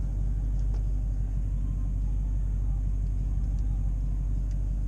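A vehicle engine idling, heard from inside the cab as a steady low rumble.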